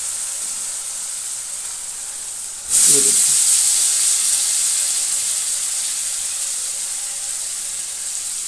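Potato chunks frying in hot spiced oil in a kadhai: a steady sizzling hiss. About three seconds in, the sizzle jumps suddenly louder as more potato pieces go into the oil, then slowly dies down.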